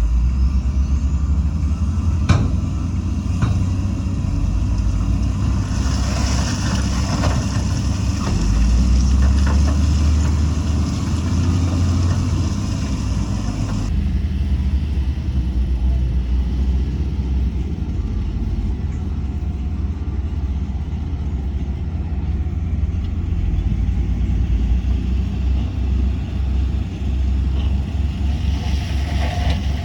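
Heavy diesel earthmoving machinery running with a steady low engine sound throughout. There is a sharp knock about two seconds in, and a stretch of hiss from about six to fourteen seconds in.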